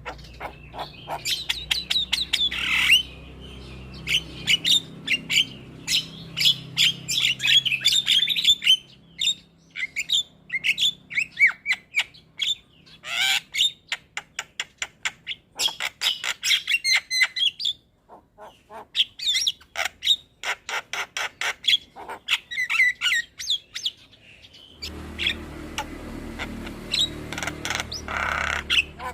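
Javan myna singing continuously: rapid chattering clicks, harsh squawks and short whistled phrases, with a few brief pauses. A low rumble sits under the song near the end.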